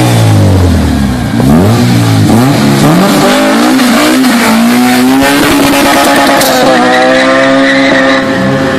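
Street-racing cars at full throttle, their engines revving up through the gears in a series of rising pitches with quick drops at each shift, several engines overlapping. Near the end one long high rev is held as the cars pull away.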